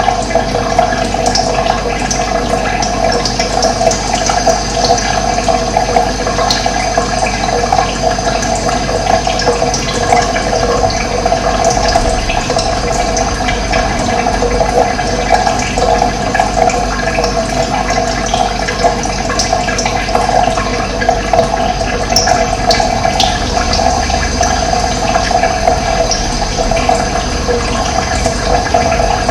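Running water flowing steadily, a continuous rushing wash, with occasional short bird chirps above it.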